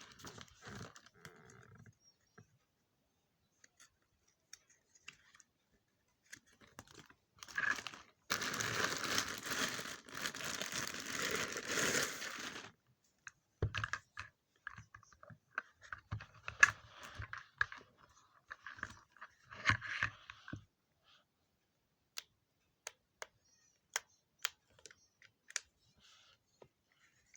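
Unboxing handling noise: packaging crinkling and tearing in a dense stretch about a third of the way in, followed by scattered clicks and taps as the hair dryer and its parts are handled.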